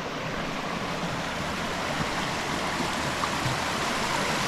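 Mountain creek rushing: a steady sound of flowing water that grows gradually louder.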